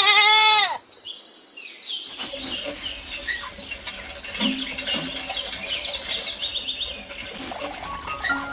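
A single goat bleat in the first second, the loudest sound, followed from about two seconds in by birds chirping steadily.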